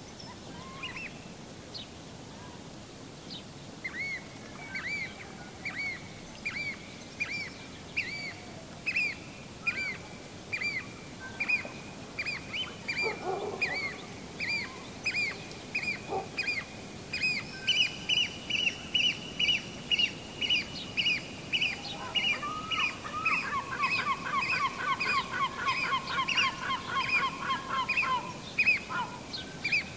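Bird calls: short, sharp high-pitched notes repeated about twice a second. A second, higher-pitched caller joins partway through, and a faster, lower run of notes comes in near the end. A steady hiss lies underneath.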